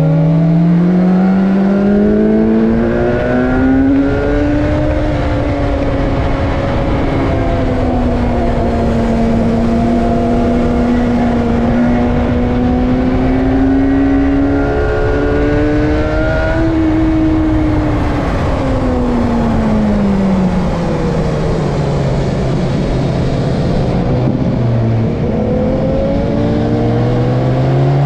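BMW S1000R's inline-four engine under hard use on a track lap: revs climb steeply at first, hold high for a long stretch, drop over a few seconds and sit low, then climb again near the end. A steady rush of wind and road noise runs underneath.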